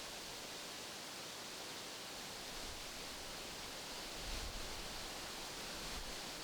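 Wind rustling through tree leaves as a steady, soft hiss, with a low rumble joining in from about four seconds in.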